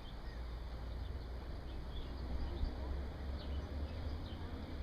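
Small birds chirping faintly and sparsely over a steady low rumble.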